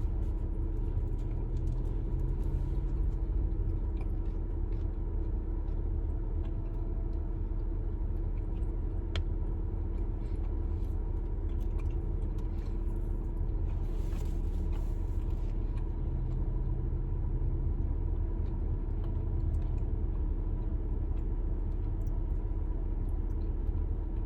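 Steady low rumble and hum of a parked car running, heard inside the cabin, with faint chewing clicks and a brief rustle about fourteen seconds in.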